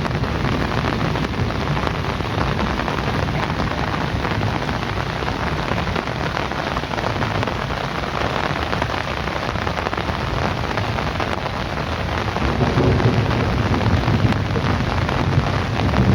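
Heavy rain falling steadily, with a low rumble of thunder swelling up in the last few seconds.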